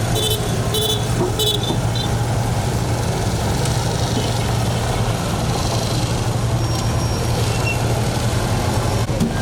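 Vehicle horns tooting in short blasts, four times in the first two seconds, over steady engine and traffic noise with a low hum.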